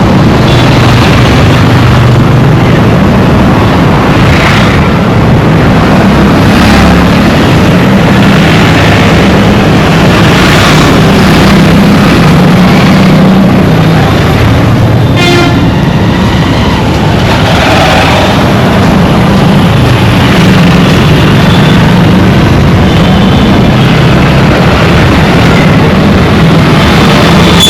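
Dense road traffic: a loud, continuous mix of vehicle engines and tyre noise, with horns honking now and then. One clear horn blast comes about halfway through.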